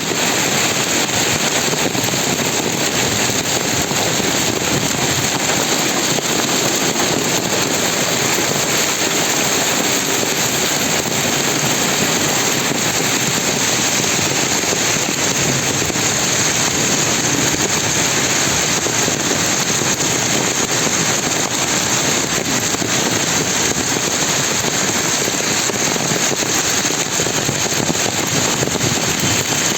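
Rain pouring steadily, a dense, even hiss of drops with a fine crackle.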